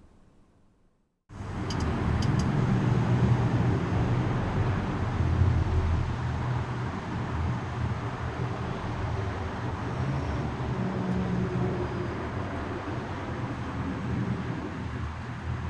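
A steady low rumbling noise that cuts in suddenly after about a second of dead silence, with two faint clicks just after it starts.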